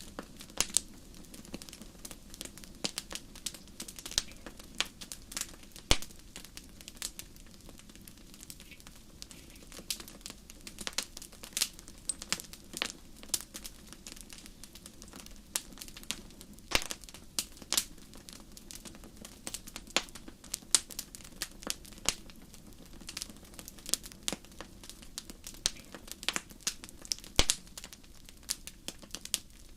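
Wood fire burning in a fireplace, crackling with irregular sharp pops and snaps, several a second at times, over a low steady background.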